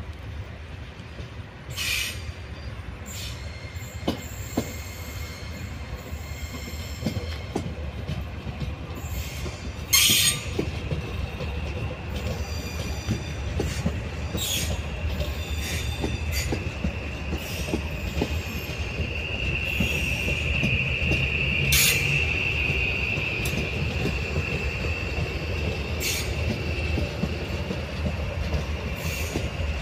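Train wheels squealing on the rails as a train moves through a station. A high steady screech builds over the second half above a low rumble, with several sharp knocks, the loudest about ten seconds in.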